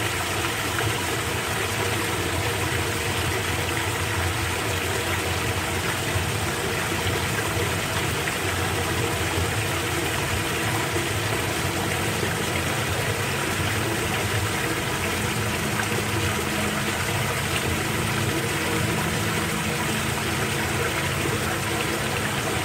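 Floodwater rushing steadily down a street storm drain, a constant watery hiss, with a faint low hum underneath.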